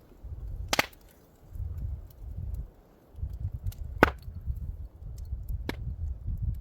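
Campfire wood popping and cracking, three sharp snaps a few seconds apart, the second one the loudest, over an uneven low rumble.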